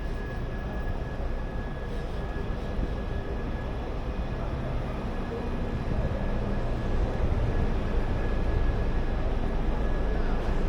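Steady low rumble of vehicle traffic, growing somewhat louder in the second half, with a thin constant high whine running through it.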